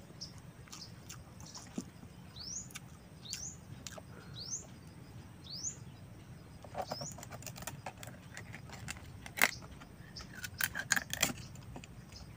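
Birds chirping: several short, rising calls spaced about a second apart. In the second half, a run of sharp clicks and knocks, the loudest about nine and a half seconds in.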